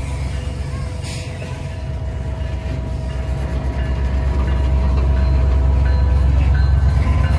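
Train approaching, its locomotive's low rumble growing steadily louder.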